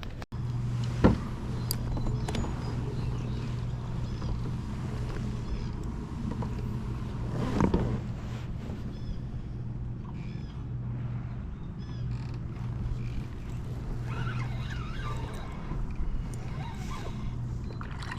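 A boat motor hums steadily on the water, with a couple of sharp knocks on the kayak about a second in and again near the middle.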